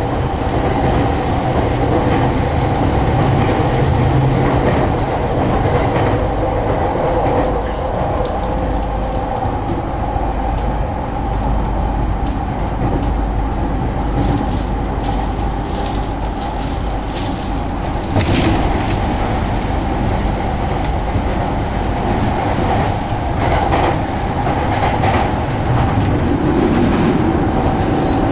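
Inside the passenger car of a moving Utsunomiya Line electric commuter train: steady running noise with a low rumble and a constant hum. About halfway through, a run of wheel clacks over rail joints.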